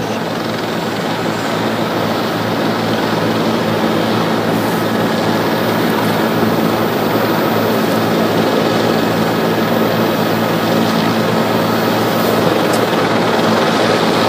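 Steady helicopter noise, its rotor and engine running evenly with a constant low drone.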